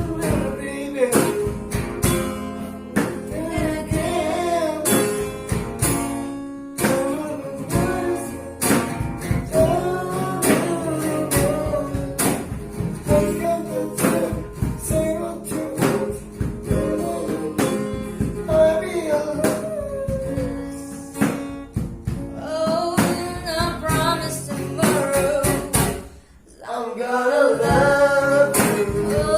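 Acoustic guitar strummed as accompaniment to a voice singing a cover song; the music dips briefly near the end.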